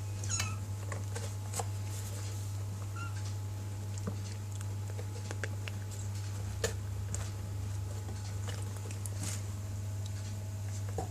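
Kittens playing: scattered light taps, scuffles and clicks from their paws and the string, over a steady low hum.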